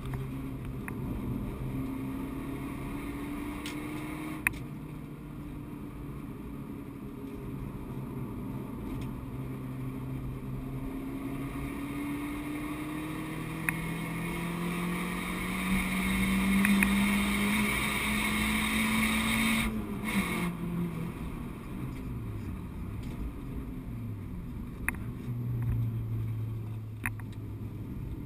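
Renault Clio 172's 2.0-litre four-cylinder engine heard from inside the cabin at track pace. The revs climb steadily for several seconds under hard acceleration, drop away abruptly about two-thirds of the way through as the driver comes off the throttle, then dip and rise a few times before settling at a lower, steady pitch.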